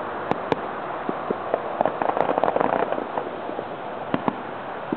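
Distant aerial fireworks bursting: two sharp bangs, then a rapid run of crackling pops, then two more bangs near the end, over a steady background hiss.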